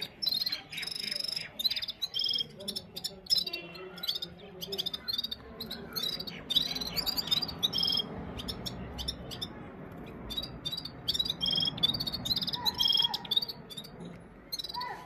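Red-fronted serin song: fast, high twittering trills and chirps in quick bursts, one phrase after another.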